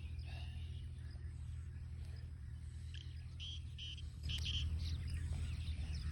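A few faint, short bird chirps in small clusters over a steady low hum.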